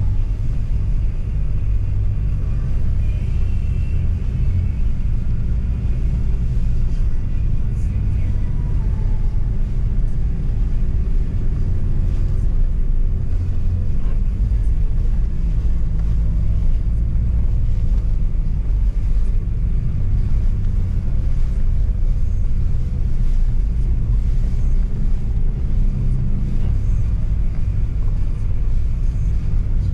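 Nissan Pathfinder driving through a snowstorm: a steady low rumble of engine and tyres mixed with strong wind on the microphone.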